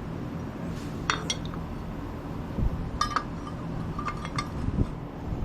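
Light metallic clinks and taps, a few small groups of them, as a scooter's brake caliper bracket and its bolts are handled and fitted, over the steady hum of a shop fan.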